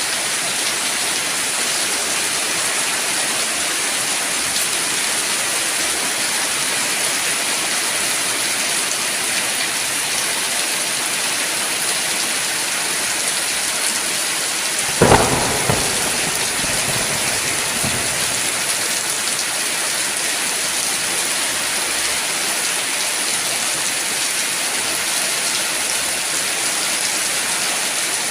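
Steady heavy rain falling. About halfway through a sudden sharp thunderclap, the loudest moment, rumbles off over the next few seconds.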